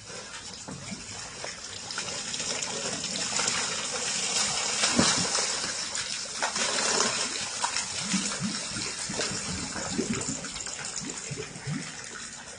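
Water rushing and gushing steadily, growing louder toward the middle and easing off near the end.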